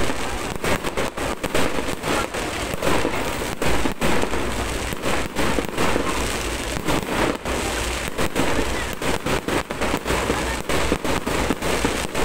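Fireworks display: a dense run of bangs and crackles from aerial shells launching and bursting, several a second.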